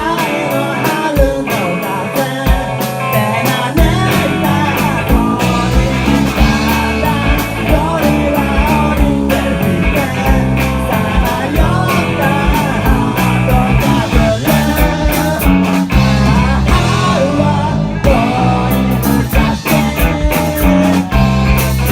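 A rock band playing live at full volume: electric guitar, bass and a steady drum beat.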